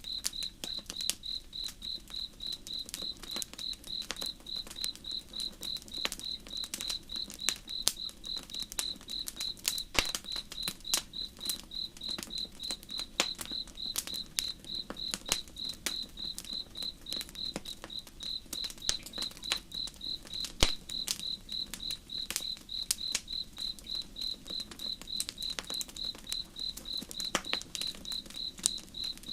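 Campfire crackling and popping in irregular sharp snaps, over a cricket chirping steadily at about three chirps a second and a faint low rush of river water.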